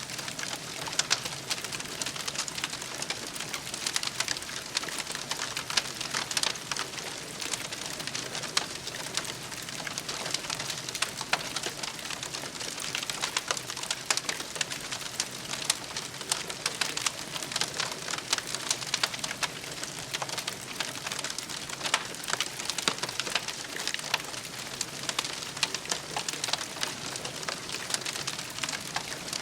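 Campfire crackling, with frequent sharp pops over a steady hiss.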